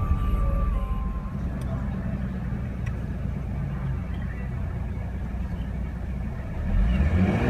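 2016 Chevrolet Camaro 2LT's 3.6-litre V6 idling just after start-up. The idle drops a little about a second in, then the engine is revved near the end.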